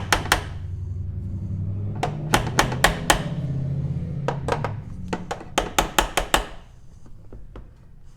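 Hammer tapping on a loosened door striker post in a Corvette C3 door jamb, in quick bursts of five to seven light strikes, to nudge the striker's alignment with the door latch. A low steady hum sits under the first half.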